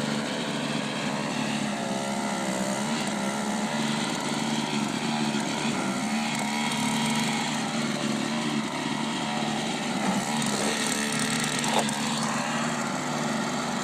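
Gas snowblower engine running steadily.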